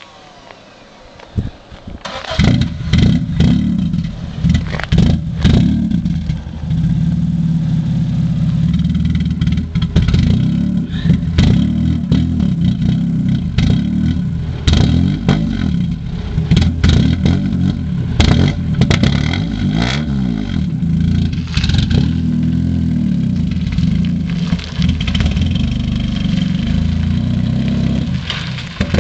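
1990 Acura Integra GS's B18A1 1.8-litre four-cylinder on a cold start. It catches about two seconds in and then runs loud and uneven, the revs rising and falling, with the rough running blamed on a bad throttle position sensor and a bad idle air control valve.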